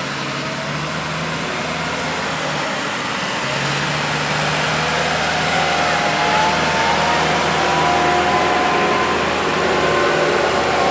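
Tractor engine running steadily and growing gradually louder, its higher engine tones gliding slightly in pitch in the second half.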